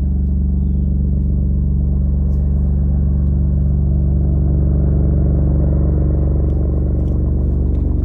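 A machine running with a loud, steady low hum, with faint light clicks over it.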